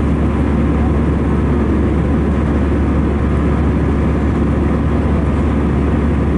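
Steady cabin drone of an Airbus A319-111 in flight: a deep, even rumble of its CFM56 turbofan engines and the airflow around the fuselage, heard from inside the cabin.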